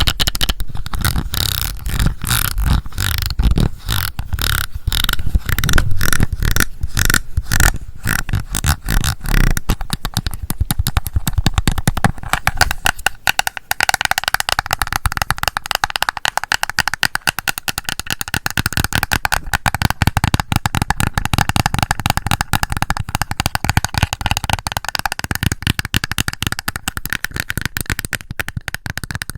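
Rapid fingernail tapping on a blush compact, with deeper knocks for the first ten seconds or so, giving way about 14 seconds in to a lighter, denser scratching sound.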